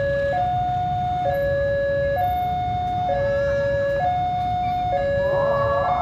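Railway level crossing alarm sounding its two-tone electronic warning, switching between a low and a high note about once a second, over a low rumble. Toward the end a rougher noise joins in.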